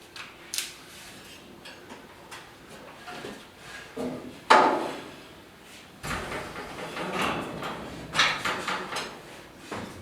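Knocks, clicks and rattling from hands-on work fitting an 8-foot LED shop light fixture. A sharp knock comes about four and a half seconds in, and a stretch of clattering follows from about six seconds.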